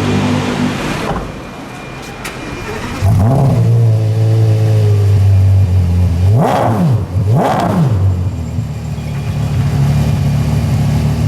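Porsche Carrera GT's 5.7-litre V10 with a straight-through exhaust, its engine note coming in loud and steady about three seconds in, then two quick throttle blips, each a rising and falling rev about a second apart, before it settles back to a steady idle.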